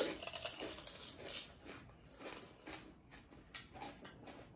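Crisp panipuri shells crunching as they are chewed, a run of irregular crunches.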